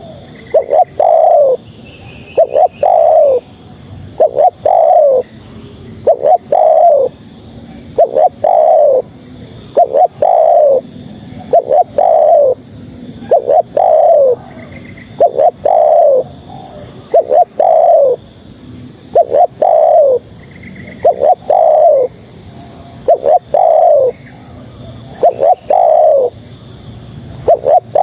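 Spotted dove (tekukur) cooing: a short phrase of two or three notes, each falling in pitch, repeated evenly about every second and a half to two seconds. It is a female's call, used as a lure to draw males to answer.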